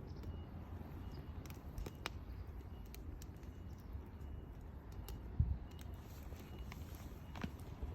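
Wood fire crackling, with irregular sharp pops over a low steady rumble and one dull thump a little past halfway.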